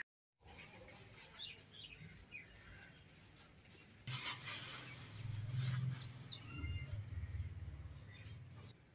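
Birds chirping faintly in short calls. About four seconds in, a low steady hum comes in with a burst of noise, then fades out near the end.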